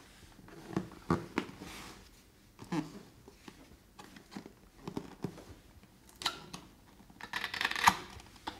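Cardboard box being opened and its packaging handled: scattered knocks and scrapes, with a longer, louder rustling scrape near the end.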